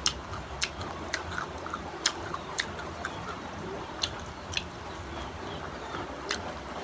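Crisp chewing and biting of raw green mango, heard as a string of sharp, irregular crunches.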